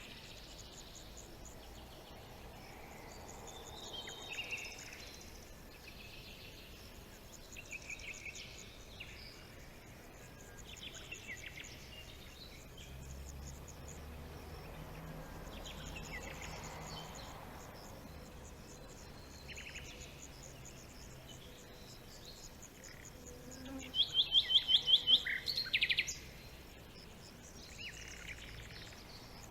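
Several songbirds chirping and trilling, scattered short high calls over a faint steady background. Near the end comes the loudest call, a rapid run of high notes lasting about two seconds.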